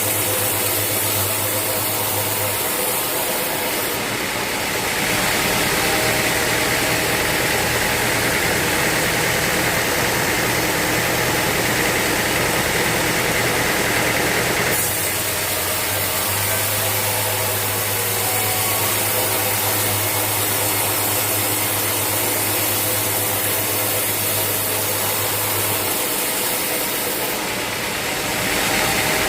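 Sawmill saw running steadily while it cuts through a teak log, a continuous mechanical drone with a low hum. The cutting noise brightens and hisses from about four seconds in, drops back around the middle, and brightens again near the end.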